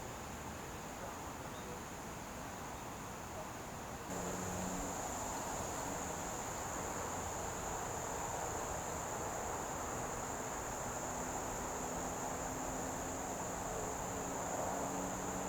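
Crickets chirring as a steady high-pitched chorus over a soft background hiss, louder from about four seconds in.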